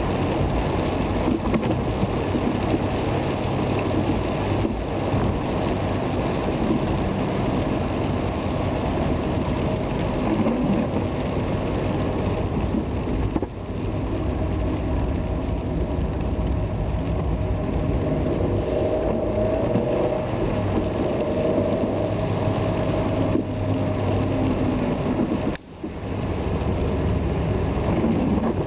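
Car driving on wet roads in the rain: steady engine and rain noise, with a brief drop in level about halfway through and a deeper one near the end.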